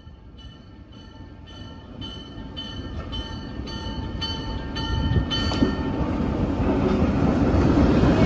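Grade-crossing bell ringing about twice a second as an end-cab diesel switcher locomotive approaches and passes. The engine and wheel rumble grow steadily louder until the locomotive is alongside.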